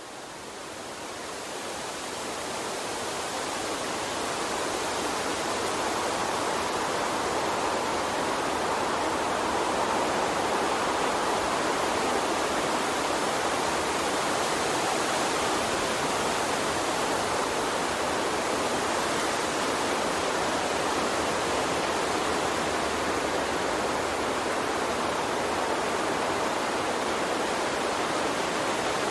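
Water stream running steadily, a continuous rushing hiss that fades up over the first several seconds and then holds level.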